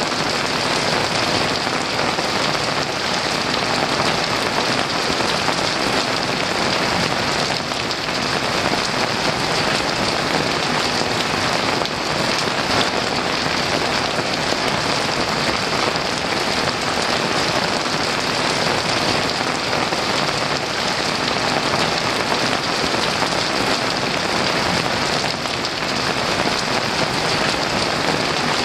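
Heavy rain falling steadily, a dense, even hiss without thunder.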